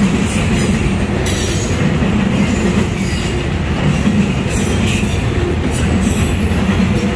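Autorack freight cars rolling past close by: a loud, steady rumble of steel wheels on the rails, with a few brief high-pitched flashes over it.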